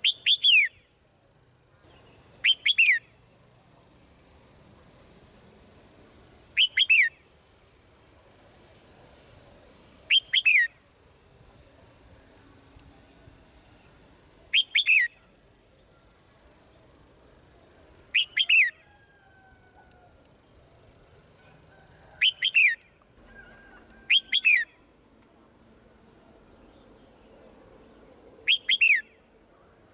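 Swallow calls: nine loud, nearly identical bursts, each a quick pair of downward-sweeping chirps, repeating every few seconds over a steady faint high hiss.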